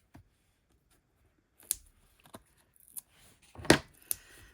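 Scattered sharp clicks and taps of papercraft handling: foam adhesive dimensionals being peeled from their sheet and pressed onto a card. The loudest click comes a little past halfway, with another just after it.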